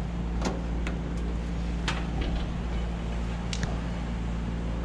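Steady low machine hum, with a few faint short clicks scattered through it.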